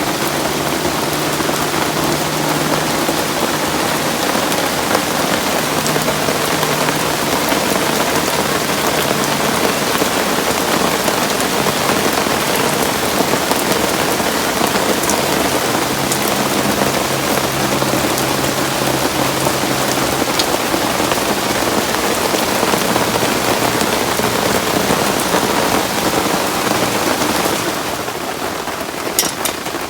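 Heavy rain falling steadily, easing slightly near the end.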